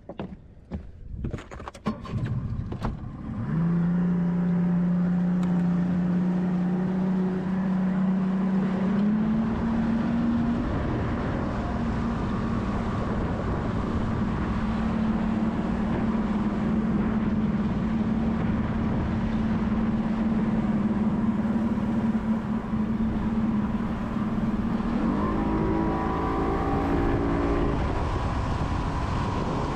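A few knocks, then a boat motor starts running about three seconds in, a steady drone that rises in pitch twice as the boat speeds up.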